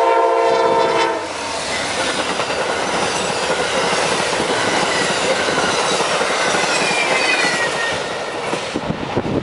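Amtrak passenger train passing at speed: its horn chord cuts off about a second in, then the train rushes by with a loud steady roar of wheels on rail, fading near the end.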